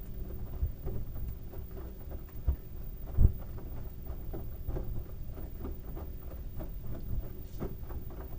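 LG washing machine drum tumbling a load of wet towels: a run of soft thuds and clicks, about three a second, with one heavier thump about three seconds in.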